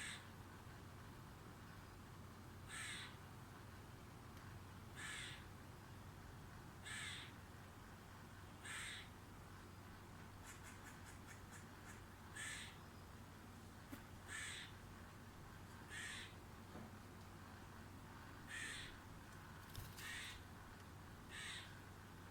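A bird repeating a short call about every two seconds, faint over a low steady background hum, with a brief run of quick ticks midway.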